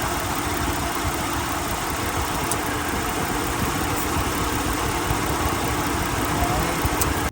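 2008 Ford Edge's 3.5 L V6 engine idling steadily, heard with the hood open, with a few faint clicks. The AC compressor, which is suspected bad, is kicking in and out.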